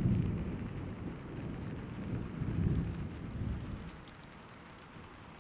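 Thunderstorm: low rolling thunder over steady rain. The rumble swells again past the middle, then dies away about four seconds in, leaving only the rain.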